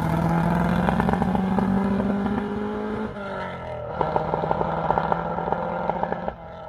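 Ford Escort rally car engine pulling hard up a hill climb, its pitch climbing steadily. About three seconds in the pitch breaks and drops as it shifts or lifts, then it pulls hard again with a crackling edge. Near the end the sound falls away abruptly.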